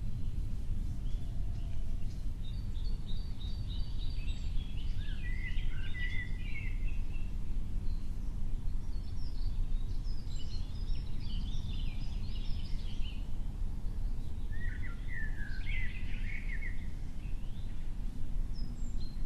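Songbirds chirping and twittering in three bouts of quick high notes, over a steady low rumble of background noise.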